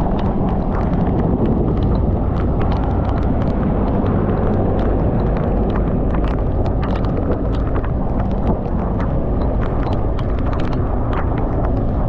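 Motorcycle riding in heavy rain: a steady low rumble of wind and engine on the microphone, with many short sharp ticks of raindrops striking it.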